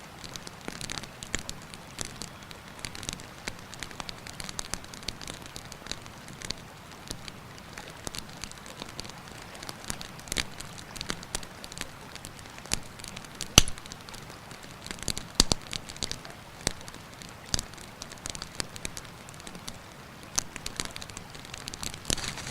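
Wood campfire crackling with irregular sharp pops, one much louder about halfway through, over the steady rush of a river.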